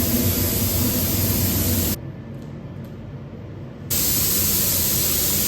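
Paint spray gun spraying acrylic 2K paint in two bursts of loud, even hiss, each about two seconds long, with a short pause between them.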